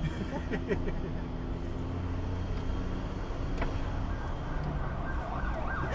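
Steady road and engine noise of a car driving, with one brief tick about halfway through.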